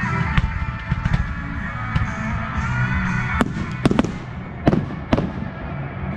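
Aerial firework shells bursting in a string of sharp bangs, the four loudest in the second half, over steady rock music.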